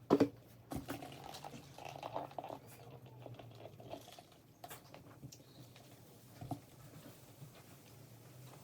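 Close-up eating sounds: chewing with scattered small clicks and taps, after one sharp knock right at the start, over a faint steady hum.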